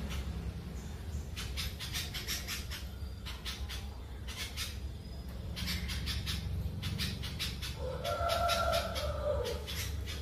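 A small bird chirping in quick rapid-fire runs, three bursts, over a steady low background rumble; near the end a longer, lower wavering call sounds alongside the chirps.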